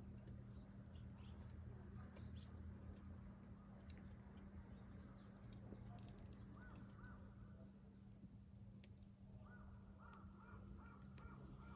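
Faint birdsong: a bird repeats a short, high, falling chirp over and over, then lower arched calls come in quick runs near the middle and again near the end. Faint scattered crackles of a small wood fire burning in a rusty can, over a steady low hum.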